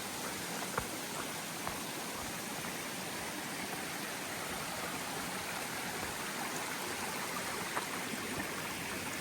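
Small rocky creek flowing and splashing, a steady rushing of water, with a few faint clicks over it.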